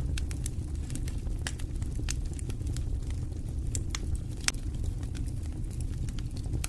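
Wood fire burning in a fireplace: a steady low rumble of flames with scattered sharp crackles and pops, one louder pop about four and a half seconds in.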